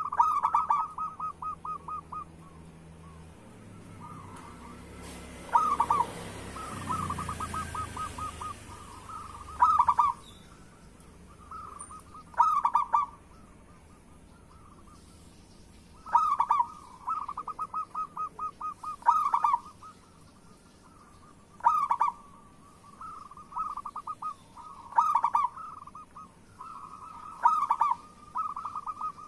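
Zebra dove (perkutut) cooing: phrases of quick, stuttering notes, each ending in a louder coo, repeated every few seconds.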